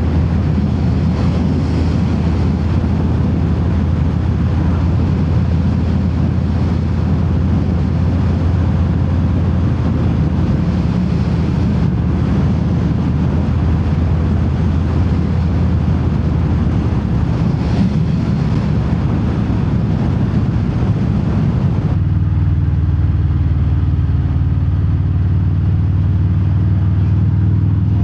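Harley-Davidson Fat Bob's V-twin engine running at riding speed through Vance & Hines Hi-Output slip-on mufflers with no quiet inserts, a deep steady exhaust rumble heard from inside the rider's helmet with wind noise over it. About three-quarters of the way through, the wind hiss drops away suddenly and the exhaust note comes through cleaner, rising slightly near the end.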